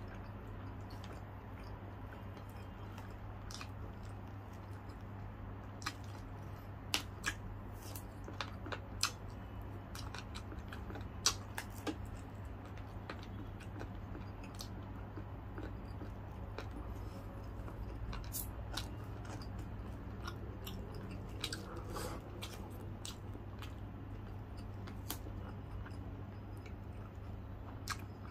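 A person chewing and biting deep-fried chicken, with wet mouth sounds. Sharp crackles come through here and there, most of them about six to twelve seconds in. A steady low hum runs underneath.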